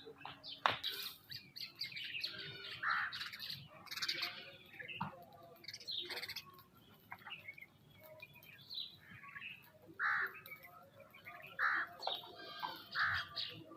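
Several birds chirping and calling in short, overlapping notes, with a louder, rounder call repeating every second or two in the second half.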